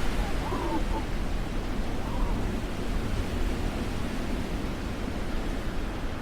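Steady rushing noise with a heavy low rumble from wind buffeting the microphone over the city's street hiss, with faint voices in the first couple of seconds.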